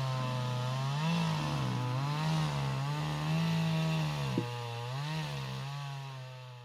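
Two-stroke chainsaw running at high speed while bucking a knotty red pine log, its engine pitch sagging and recovering about once a second as the chain bites into the wood and eases off. A sharp click about four seconds in; the saw fades out near the end.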